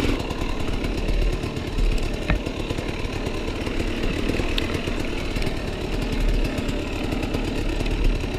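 Enduro motorcycle engine running steadily at low revs, without revving up.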